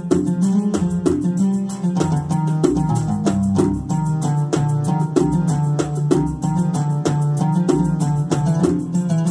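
Yamaha PSR-A5000 arranger keyboard playing a melody over a Kuwaiti sawt rhythm, with quick, evenly repeating mirwas hand-drum strokes and a steady bass line.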